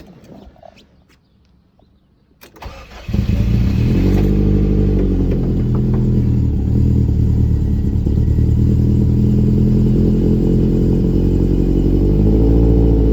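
1998 Subaru RS's flat-four engine on a cold start: a few quiet clicks, then about three seconds in it cranks briefly and catches, settling into a steady idle.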